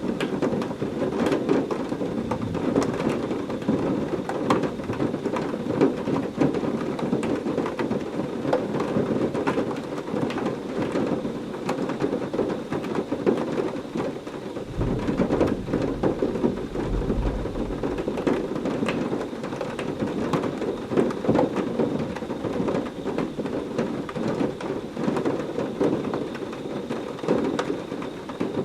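Heavy rain pouring steadily, with a dense patter of drops. About halfway through, a low rumble of thunder rolls for a few seconds.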